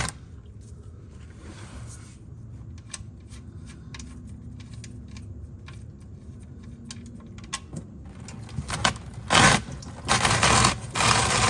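Scattered metallic clicks and scrapes of a socket tool working an oil pan drain bolt loose. About nine seconds in come several loud rushing bursts of noise.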